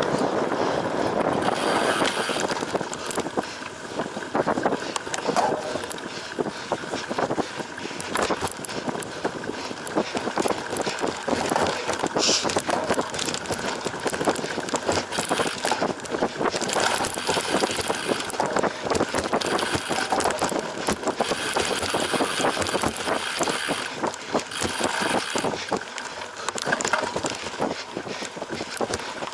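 Cyclocross bike being raced over rough ground: a continuous noisy rattle of tyres on dirt and grass with many knocks and clatters from the bike. A brief high squeak comes about twelve seconds in.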